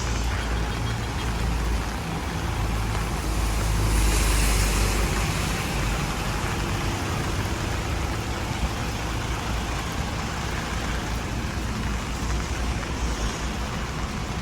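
Road traffic on a rain-wet street: steady tyre hiss and engine rumble, with a vehicle passing close about four seconds in.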